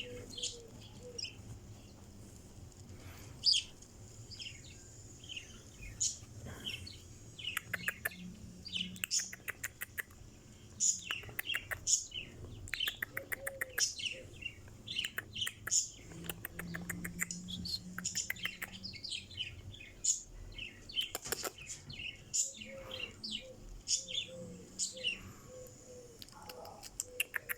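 Budgerigars chirping and chattering: many short high chirps mixed with fast rattling trills.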